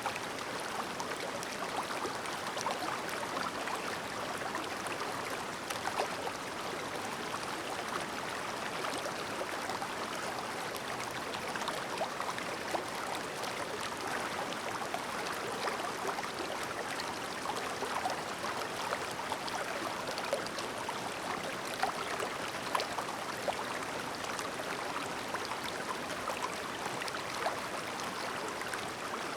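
Clear, shallow stream babbling: a steady rush of flowing water dotted with many small, quick splashes and gurgles.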